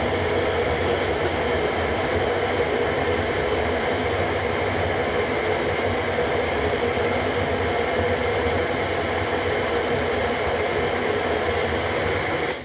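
Blender motor running steadily, blending a fruit-and-vegetable smoothie, then switched off abruptly at the very end.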